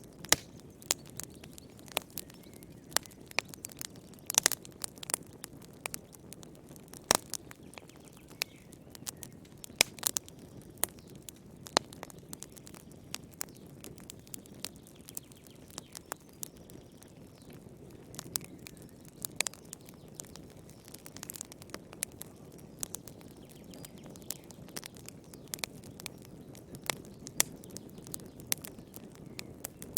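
Wood fire crackling: irregular sharp pops and snaps, several a second, a few louder single pops among them, over a soft low rumble of the flames.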